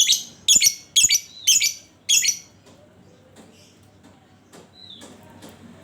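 Lovebird giving five loud, harsh squawking calls about half a second apart, then faint chirps and a short falling whistle.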